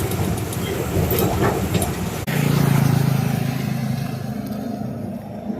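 A motor vehicle's engine running with road noise. A louder low engine hum comes in abruptly a little over two seconds in and then slowly fades.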